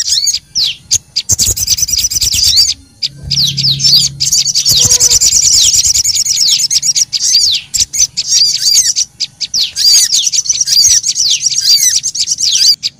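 Busy, agitated chirping and trilling of small songbirds, sogon and prenjak lumut, calling over each other in rapid high-pitched notes, as used in a bird-luring call recording. The calls break off briefly about a second in and again around three seconds in.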